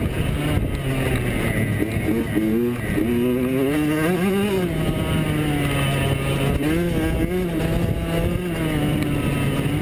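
85cc two-stroke motocross bikes racing, several engines at once: one holds a steady pitch while others rev up and drop off again and again as the riders work the throttle.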